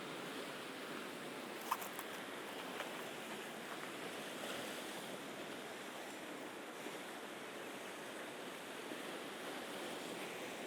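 Sea surf washing steadily against the shore, with one sharp click a little under two seconds in.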